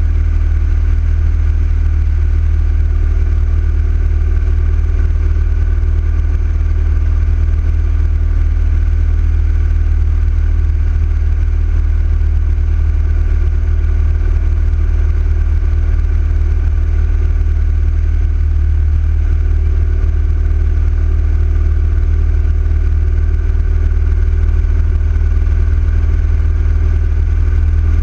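Yamaha XV1900 big-bore V-twin motorcycle engine running at a steady cruising speed with a deep low drone, heard from the moving bike.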